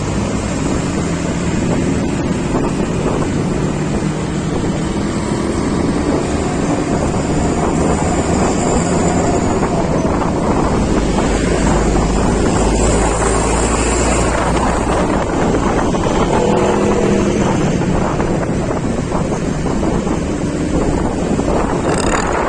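Wind buffeting the microphone while riding along a road, with a vehicle engine running underneath.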